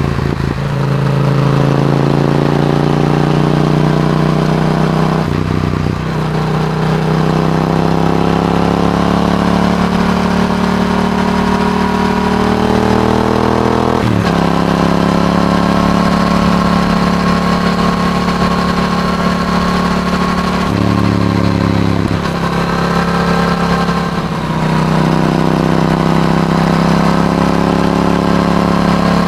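Yamaha R7's parallel-twin engine through an Akrapovic exhaust under acceleration. The pitch climbs steadily and drops back sharply at each upshift, about five times.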